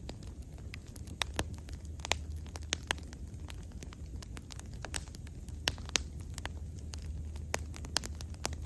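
Wood fire burning with a low steady rumble and irregular sharp crackles and pops of burning wood.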